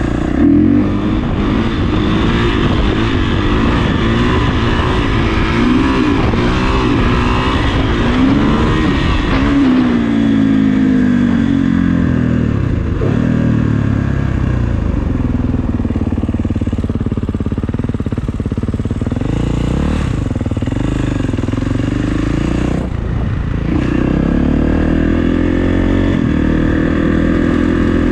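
Kawasaki KX450 dirt bike's single-cylinder four-stroke engine running under way, its revs rising and falling repeatedly as the throttle is opened and eased off, with a couple of brief drops in revs.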